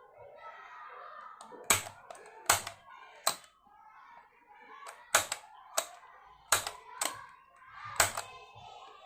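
Sharp clicks and taps of electric fan parts being handled and fitted during repair, about eight at irregular spacing, over faint background voices.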